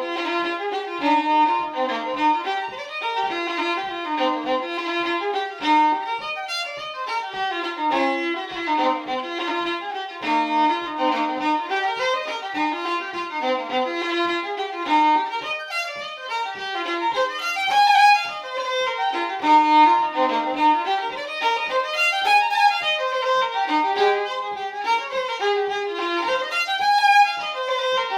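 Fiddle playing an Irish reel: a steady stream of quick, even bowed notes.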